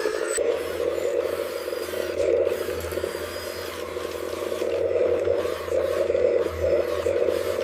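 A radio-controlled construction model's motor and drive running steadily, a fluttering whir with a low hum and some scraping.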